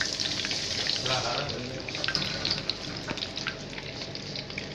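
Marinated chicken pieces deep-frying in hot oil: a steady sizzle dense with small crackles and pops.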